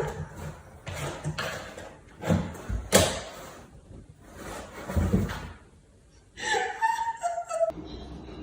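A few dull thumps and knocks, then a short wavering high-pitched sound a little past the middle.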